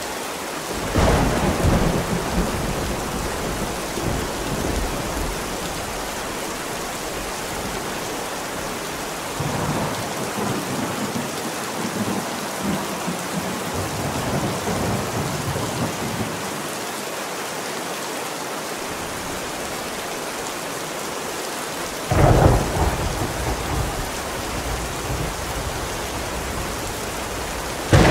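Steady heavy rain with thunder. A thunderclap comes about a second in, a long rolling rumble runs through the middle, and two sudden loud claps come near the end.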